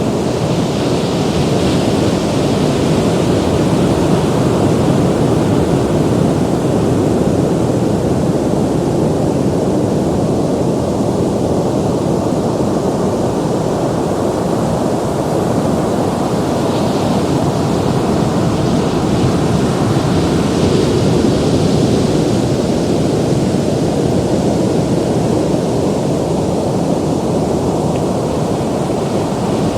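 Ocean waves breaking and washing onto the shore in a steady, deep rumbling roar that swells and eases slowly, with brief hissing surges of foam a few times.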